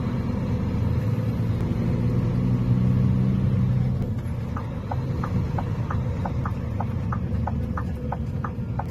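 A vehicle engine running with a steady low hum. From about halfway a rapid, even ticking joins in, roughly three to four ticks a second.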